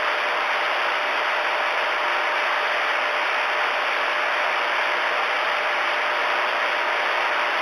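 Steady hiss and static from a Galaxy DX-979 CB radio's speaker with the squelch open on an empty channel: no station is coming through.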